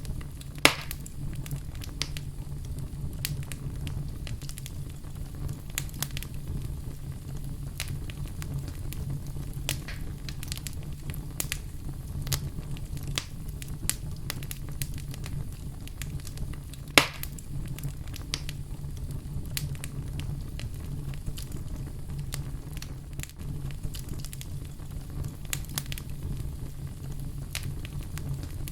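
Fire burning in a fireplace: a steady low rumble with scattered crackles, and two sharp pops, one about a second in and one just past halfway.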